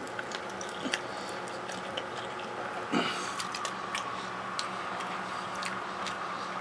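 Chewing and wet mouth clicks while eating a sauced buffalo wing, irregular and close up, with one brief hum of the voice about three seconds in over a steady low room hum.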